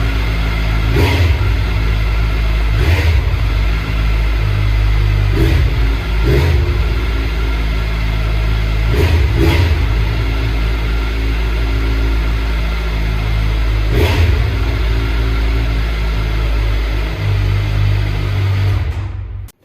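2021 Kawasaki Z900's inline-four engine running through a replica Akrapovic titanium exhaust with its baffle (dB killer) removed: idling with about seven short throttle blips. The sound cuts off suddenly just before the end.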